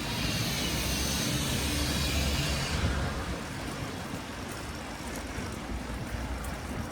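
City street traffic heard from a moving bicycle, with wind rumbling on the microphone. A high hiss, like a vehicle going by, fades out about three seconds in.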